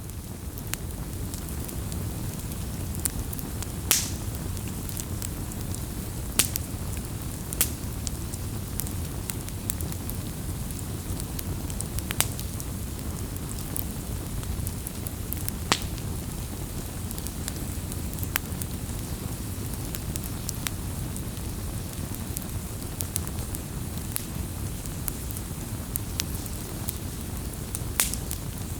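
Wood fire burning: a steady low rumble of flames with scattered crackles and a handful of louder sharp pops.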